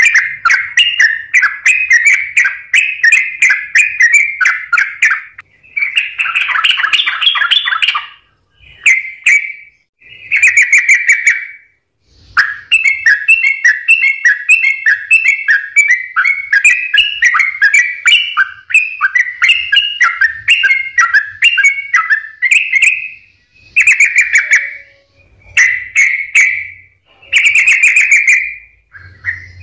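Yellow-vented bulbul (trucukan) singing energetically: fast runs of bubbling chirps in phrases of a few seconds, broken by short pauses. One phrase near the start is harsher and buzzier.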